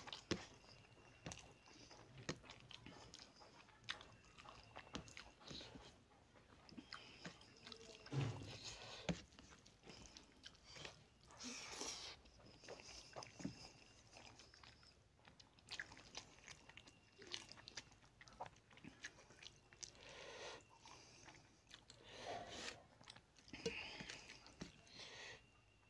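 Close-up mouth sounds of a man chewing rice and tilapia fish head curry eaten by hand: wet smacking and chewing with short clicks, mixed with the squelch of fingers working rice into curry on a steel plate.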